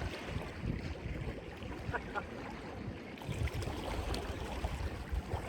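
Sea water washing and surging against shore rocks, with low wind rumble on the phone's microphone.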